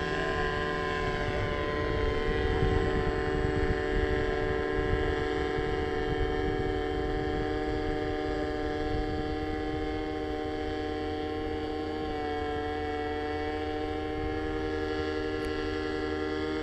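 Paramotor engine and propeller running at a steady throttle, one constant drone that holds its pitch, with a low rumble underneath.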